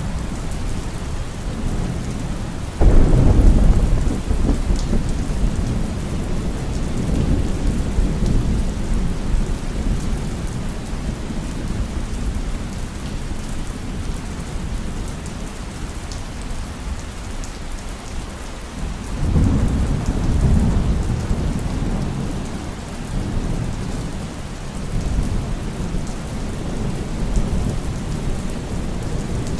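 Steady heavy rain with rolling thunder. A sudden thunderclap about three seconds in rumbles away over several seconds, and another low rumble swells up about two-thirds of the way through.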